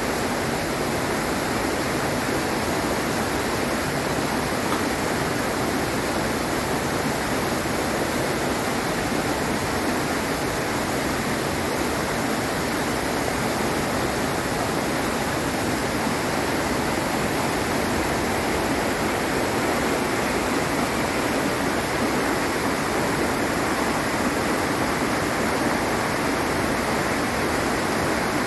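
Steady, unbroken rush of falling water from the Iguazu Falls cascades.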